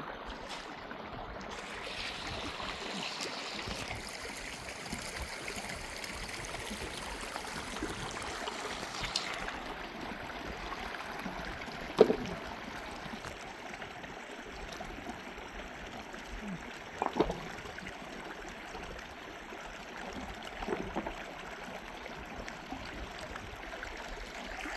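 Steady running water flowing, with a few short sharp knocks, the loudest about halfway through.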